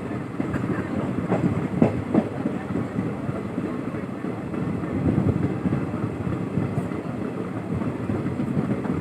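Passenger train rolling along the track: a steady rail rumble, with a few sharp clanks of the wheels over rail joints about one and a half to two seconds in.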